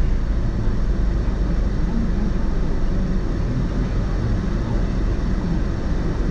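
Steady driving noise of a car on the road: a constant low rumble of tyres and engine with no sudden events.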